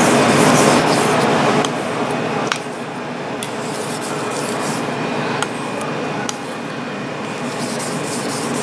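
Kitchen knife being sharpened on a water-soaked 6000-grit finishing whetstone: the steel blade rubbing steadily over the wet stone. It is louder for the first couple of seconds, then goes on more softly, with a few light clicks.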